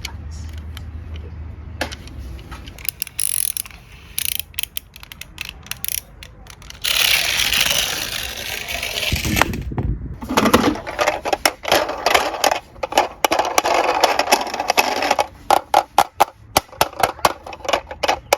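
Small diecast toy cars clicking and clattering against one another and a hard surface, with a stretch of rolling rush about a third of the way in, then a dense run of rapid rattling clicks.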